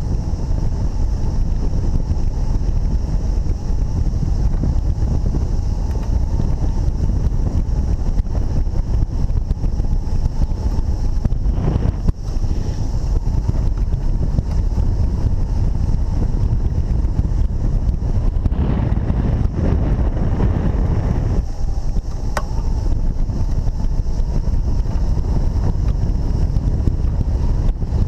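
Strong wind rushing over the microphone, a steady heavy rumble with a couple of brief dips.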